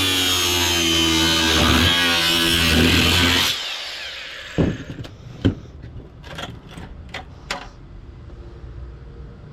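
Electric drill running steadily with a high whine, then stopping about three and a half seconds in; a few sharp clicks and knocks of scrap being handled follow.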